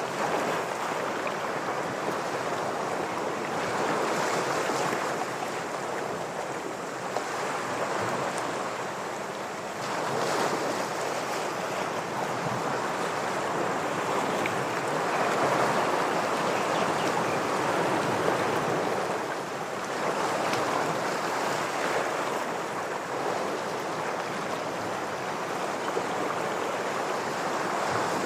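Ocean waves washing against shoreline rocks, a continuous surf wash that swells and eases every few seconds.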